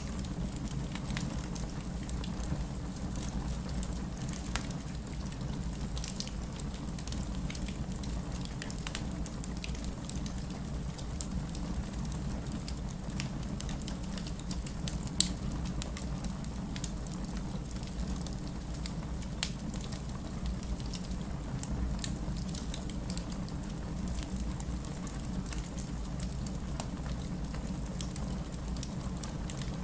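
Wood fire crackling in a fireplace: a steady low rumble of flame with scattered sharp snaps and pops, one louder pop about halfway through.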